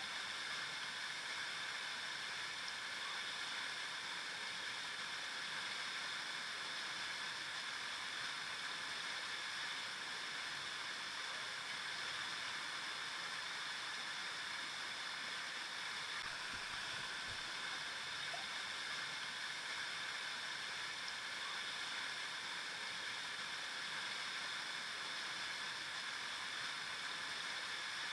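River water flowing over rocks, a steady rushing hiss that holds even throughout.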